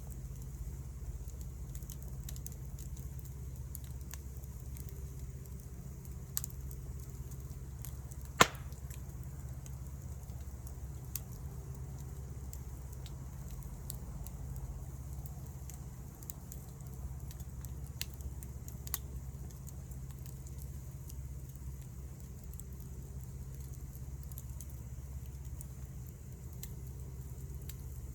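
Wood fire crackling, with scattered sharp pops, the loudest about eight seconds in, over a steady low rumble.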